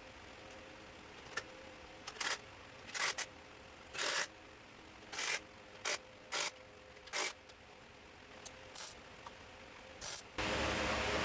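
Welder laying short tack welds on an axle bearing retaining ring: about ten brief crackling bursts, with a faint steady hum beneath. Near the end a loud steady rushing noise starts.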